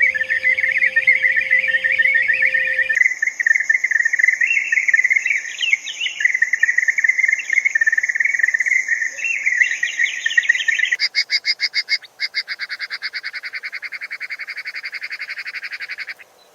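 Dense bird chatter with a steady high insect whine above it. About eleven seconds in, a fast, even insect trill takes over and cuts off abruptly near the end.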